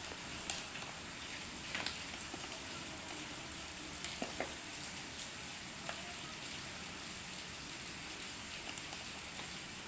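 Steady hiss with scattered light clicks and taps, as flour is worked into grated cauliflower and spices in a mixing bowl.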